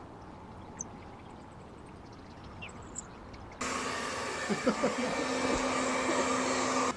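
Quiet room tone with a few faint clicks, then about three and a half seconds in a loud, steady machine noise with a hum starts suddenly, with a few knocks over it, and cuts off abruptly near the end.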